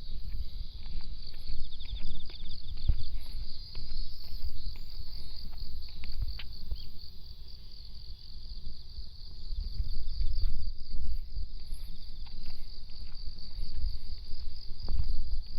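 Insects chirping steadily in a high, finely pulsing drone, over a fluctuating low rumble and scattered light clicks.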